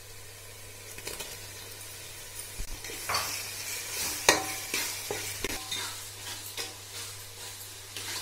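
Chopped tomatoes and onions sizzling in hot ghee and oil in a metal pot, stirred with a spatula that scrapes and knocks against the pot at irregular moments, most sharply a little after three and four seconds in.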